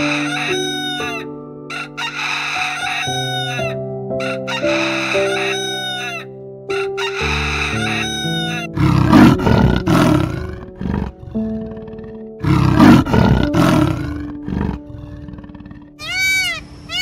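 A rooster crowing twice, each crow about one and a half seconds long, over background music of held chords. Short repeated calls come before the crows, in the first half.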